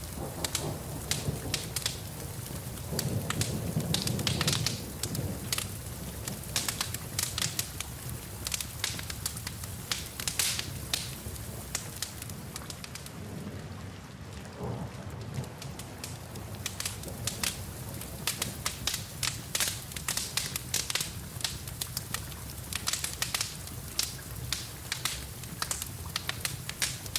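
Wood fire in a fireplace crackling, with frequent sharp pops, over the steady hiss of rain. A low rumble swells about three seconds in and fades a couple of seconds later.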